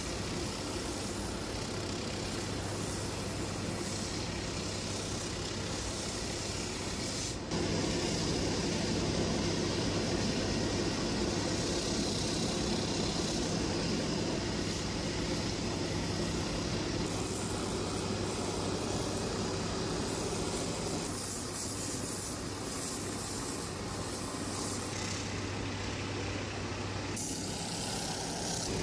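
A motor running with a steady hum, with an abrupt jump in loudness about seven seconds in and a change in its tone around twenty seconds later.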